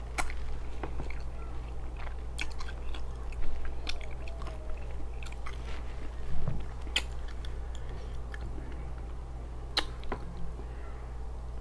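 Close-miked chewing of deep-fried ribs: soft wet mouth sounds with sharp clicks every few seconds, over a steady low hum.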